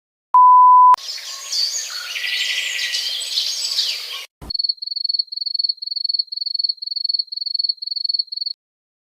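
A sequence of stock sound effects: a loud half-second 1 kHz censor beep, then about three seconds of bird chirping. After a click comes an evenly repeated high chirp, about three a second, for some four seconds.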